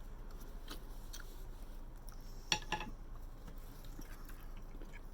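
Cutlery clicking against a plate while eating, with two sharp metallic clinks about two and a half seconds in.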